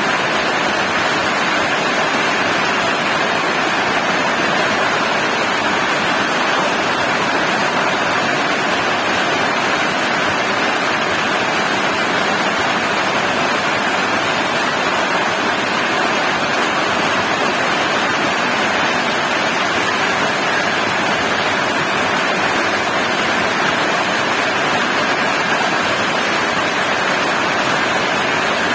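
Heavy rain pouring down, a steady, unbroken hiss with no let-up.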